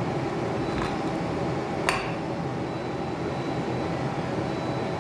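A steady low hum, with one short sharp clink about two seconds in.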